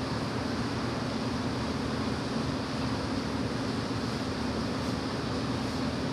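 A motor vehicle running steadily: an even rumble with a constant low hum and no change in pitch.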